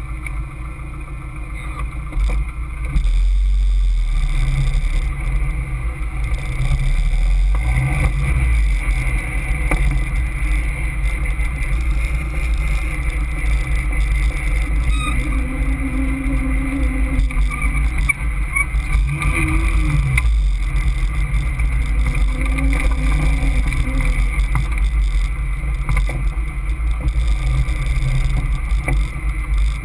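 Caterham Seven's engine running at low speed, heard from the open cockpit with heavy wind rumble on the microphone; it gets louder about three seconds in as the car pulls away.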